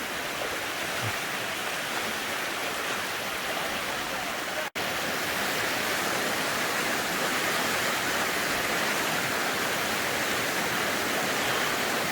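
Steady rushing water of a stream or cascade. There is a momentary dropout just under five seconds in, after which the rush is a little louder.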